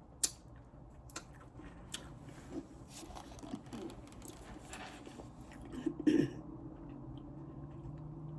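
Close-up eating sounds: a person chewing and biting into fried chicken wings, with scattered sharp clicks and taps and a louder burst about six seconds in.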